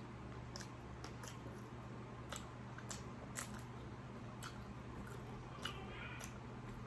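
Quiet chewing with faint wet mouth clicks and smacks, scattered irregularly, over a steady low hum.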